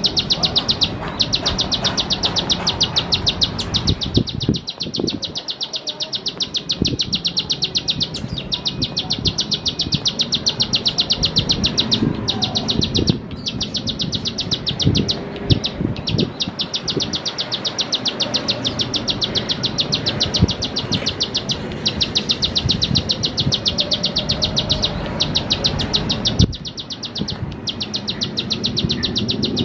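Plain prinia (ciblek sawah) singing its rapid, evenly spaced high clicking song in long runs broken by short pauses, over lower background noise.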